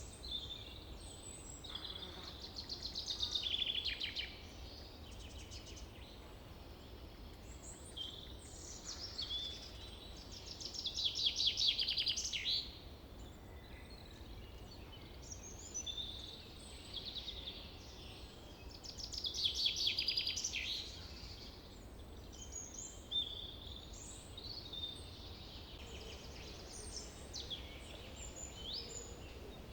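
Small songbirds chirping, with a louder rapid trill three times, each lasting about two seconds.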